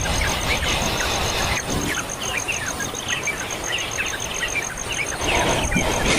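Small birds chirping, many short quick notes overlapping throughout, over a fast, even high-pitched pulsing and a steady hiss.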